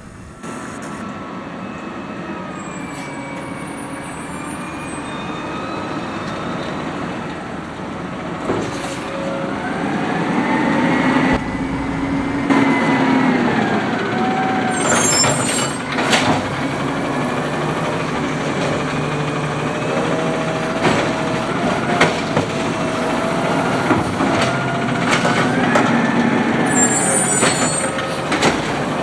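Natural-gas automated side-loader garbage truck working at idle, with a whine that rises and falls as the hydraulic arm moves. Several sharp knocks and short air-brake hisses come through.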